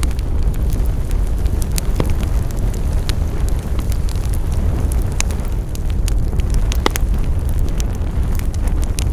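Wood fire burning with a steady low rumble and scattered sharp crackles and pops, a few louder snaps about five and seven seconds in.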